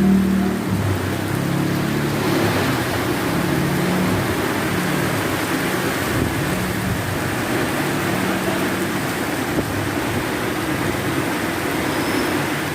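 Heavy rain falling steadily, with motor-vehicle engine noise running underneath; a louder engine fades away about half a second in.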